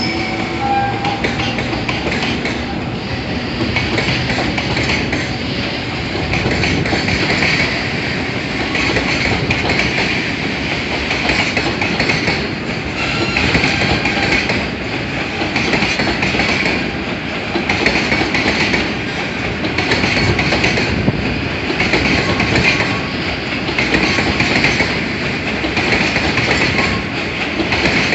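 A train running along the rails past the platform, its wheels clicking over rail joints in a steady rhythm, with the noise swelling about every two seconds as the cars go by.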